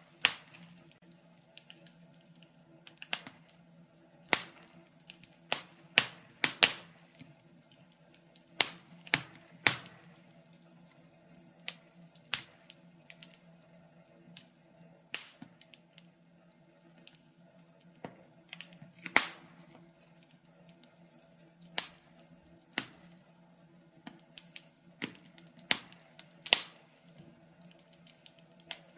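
Wood fire in a fireplace crackling: irregular sharp pops and snaps, about one or two a second, some much louder than others, over a faint steady low hum.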